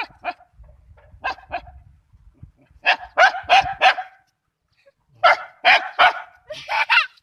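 Dog barking repeatedly in quick bursts: a pair of barks at the start, another pair about a second in, four in a row around three seconds in, and a run of four or five more near the end.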